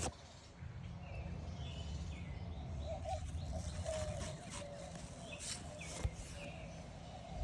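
Small birds chirping in short calls over a steady low rumble, with a few soft clicks about five to six seconds in.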